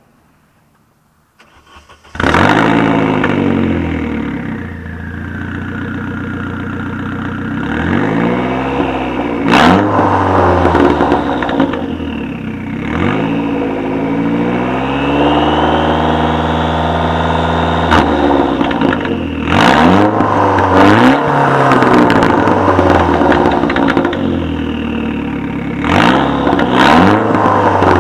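1999 Saab 9-3 Turbo's turbocharged four-cylinder, with a full straight-pipe exhaust, starts loudly about two seconds in, then idles and is revved up and down again and again. A whistle rises and falls over the exhaust note as the revs change.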